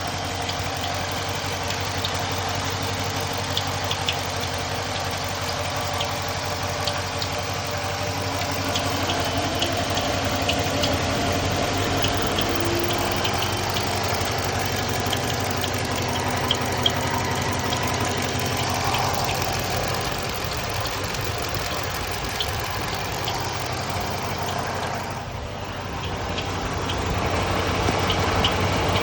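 Dodge Charger's Hemi V8 idling steadily, with short high-pitched chirps recurring over the engine's running.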